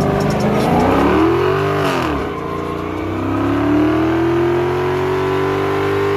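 A car engine revving: the pitch climbs fast in the first second, falls back about two seconds in, then climbs again and is held at high revs.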